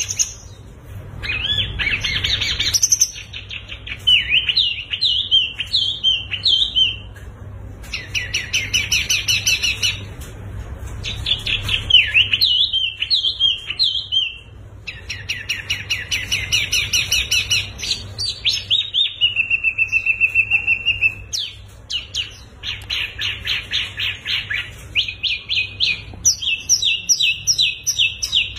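Songbirds singing a varied string of phrases: chattering warbles, fast runs of repeated notes, and a steady held whistle about two-thirds of the way through, with short pauses between phrases.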